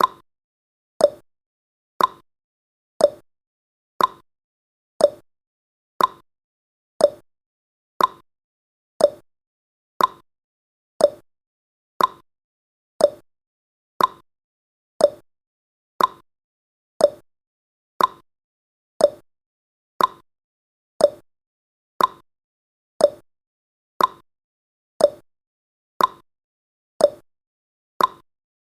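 Countdown timer's tick sound effect: one short click every second, even and steady.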